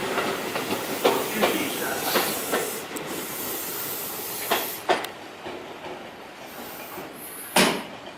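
Electric train moving slowly through the station, its wheels clacking over rail joints several times over a steady hiss that thins out about five seconds in. A sharp clack near the end is the loudest sound.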